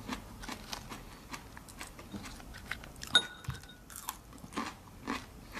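Someone biting and chewing raw lettuce and red pepper: irregular crisp crunches. One sharp clink with a short ring sounds a little after three seconds in.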